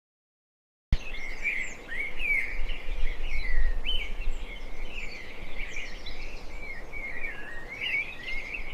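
Birds chirping continuously over a low background rumble. It starts abruptly about a second in, after dead silence.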